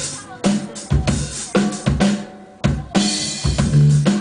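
Live band playing: a drum kit beat of kick and snare hits over low bass notes, with a brief drop-out about two seconds in.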